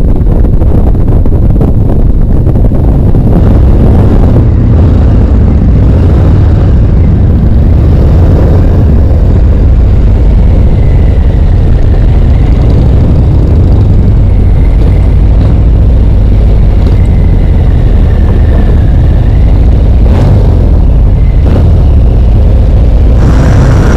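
Harley-Davidson V-twin motorcycle engine running under way, a loud steady low rumble.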